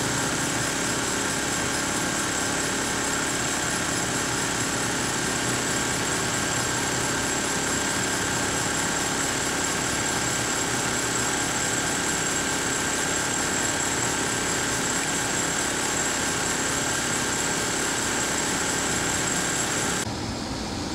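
2002 Saturn SL2's 1.9-litre four-cylinder engine idling steadily with the hood open, a steady high whine over the running, as it warms up toward operating temperature.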